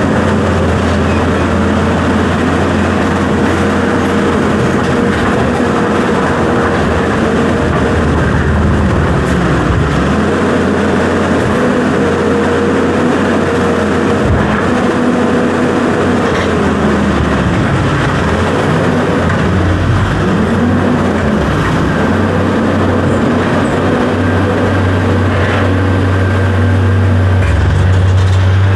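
Heavy equipment's engine running loud and steady throughout, its pitch dipping and swinging up and down partway through as the load or revs change, then steadying again.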